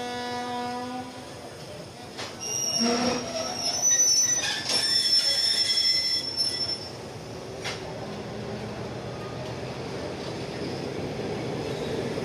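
Thai passenger train coaches rolling out past a station platform. A steady pitched tone ends about a second in. From about 2.5 to 7 seconds the wheels squeal shrilly, the loudest part, and then the coaches roll steadily past.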